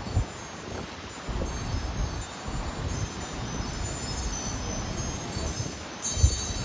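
Wind chimes ringing irregularly in strong, gusty wind, with wind buffeting the microphone in low rumbles; a louder cluster of chime strikes comes about six seconds in.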